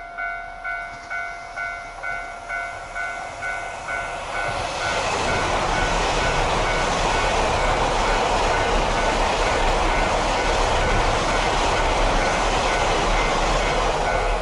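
A KiHa 261 series 1000 diesel express train passes at speed: its rush of engine and wheel noise swells about four seconds in and stays loud. Before it arrives, a warning bell dings about two and a half times a second, then is drowned out by the train.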